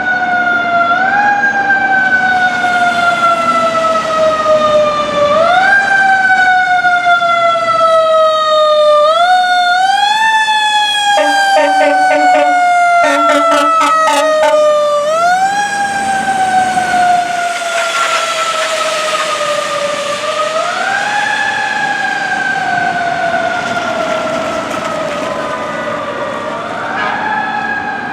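Fire truck sirens wailing: the pitch rises quickly, then winds slowly down, again and again, every few seconds. Several short air-horn blasts about halfway through, then heavy truck noise as the apparatus passes.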